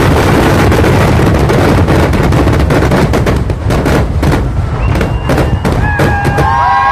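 Fireworks display going off: at first a dense, continuous barrage of blasts, then, from about three seconds in, many separate sharp bangs several a second. A few high held tones come in near the end.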